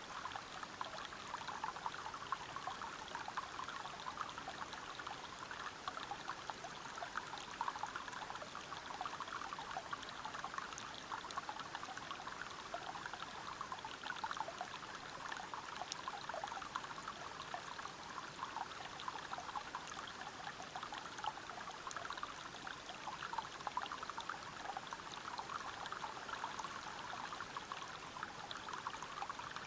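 Water pouring steadily over rocks in a small forest waterfall: a constant rush with many fine splashes.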